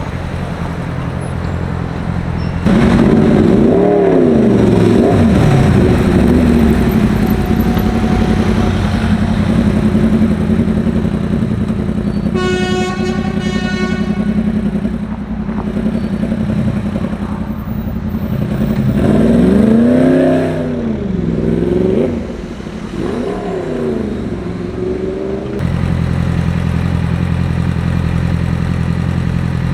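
Street traffic with car engines running, their pitch rising and falling several times as the engines rev or pass. About halfway through, a car horn sounds for about two seconds.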